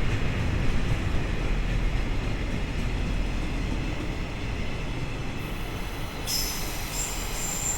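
Departing freight train rolling past on the rails, a steady rumble of wagons that eases slowly; about six seconds in, a thin high wheel squeal sets in.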